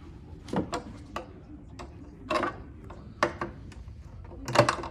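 Irregular clicks and knocks of furniture hardware and wooden panels being handled during flat-pack bed assembly, the loudest knock near the end.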